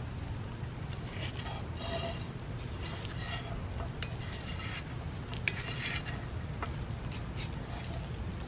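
Insects trilling steadily in one unbroken high-pitched note, over a low steady rumble with a few faint ticks and short chirps.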